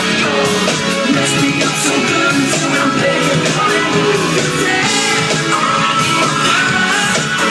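Live band music with guitar, played loud and steady through a gap in the lead vocal.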